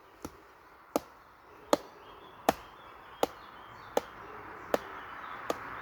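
Sharp impacts of conditioning strikes repeated at a steady pace, about one every three-quarters of a second.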